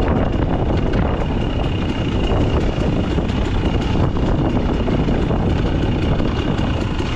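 An off-road vehicle's engine running steadily, heavily mixed with wind buffeting the microphone.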